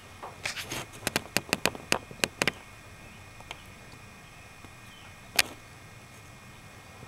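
A quick run of about a dozen sharp clicks over about two seconds, then one louder click a few seconds later.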